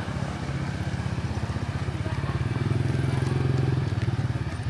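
An engine running with a rapid, steady pulse, growing louder around the middle and easing off near the end.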